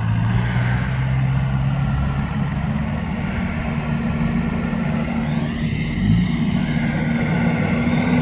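Off-road 4x4's engine running at high revs under load on a slippery wet clay slope, its tyre treads clogged with clay. The pitch dips briefly about six seconds in.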